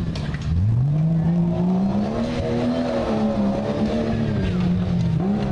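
1997 Jeep's engine revving up hard about half a second in, then holding high and easing off slightly as the truck works through an off-road course.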